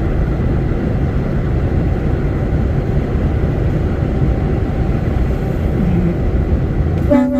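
Steady road and engine rumble of a lorry driving at speed, heard from inside the cab. A short pitched tone sounds near the end.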